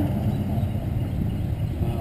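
Steady low rumble of wind and road noise on the microphone of a moving bicycle, with no distinct engine tone.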